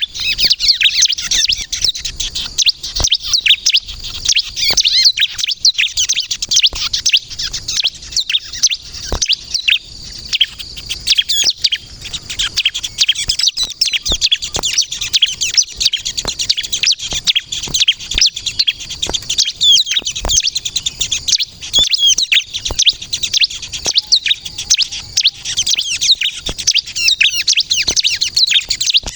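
Bar-winged prinia (ciblek kristal) singing vigorously and without pause: a rapid stream of high, sharp chirps and trills.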